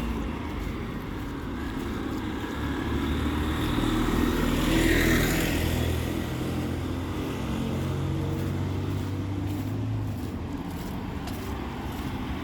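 Town street traffic: motor vehicle engines running, with one vehicle passing close and loudest about five seconds in before fading away.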